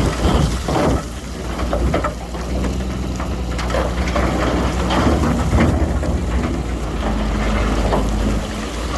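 Heavy diesel earthmoving machinery running steadily, with a dense irregular crackle and rattle like rock and soil being pushed or tipped.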